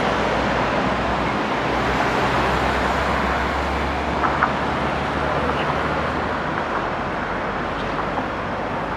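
Road traffic running past: a steady rush of tyre noise with a low engine drone that fades away about two thirds of the way through, and two short knocks about four seconds in.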